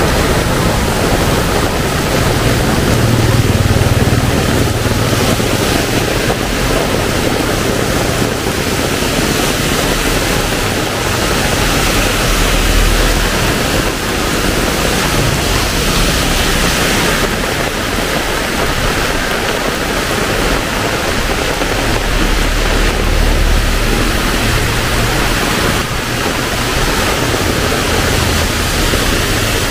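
Heavy rain pouring steadily, with a low rumble that swells and fades a few times underneath.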